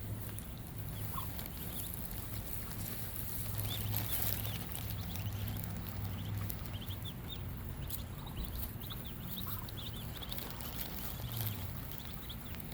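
Ducklings peeping, many short high chirps in quick, irregular runs, over a low steady hum.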